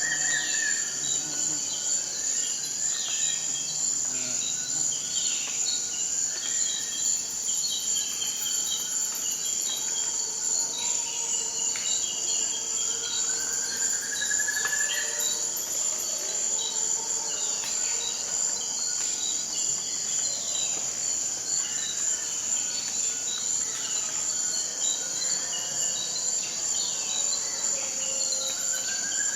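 Forest ambience: a steady, high-pitched insect chorus of crickets, with scattered short bird calls over it. A longer rising call comes three times, about every fourteen seconds.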